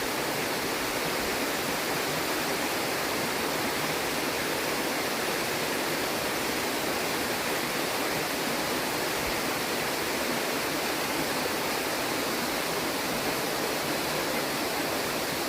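Rushing water, a steady even rush with no change in level.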